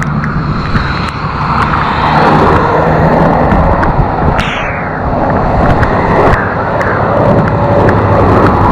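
Road traffic passing on a wet, slushy street: a steady wash of tyre noise and engine hum, with one vehicle sweeping past about four and a half seconds in.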